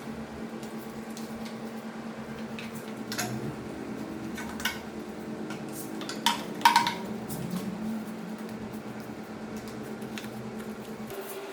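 A few sharp metallic clinks, loudest about six and a half seconds in, as of tools or bike parts being handled and set down, over a steady low hum.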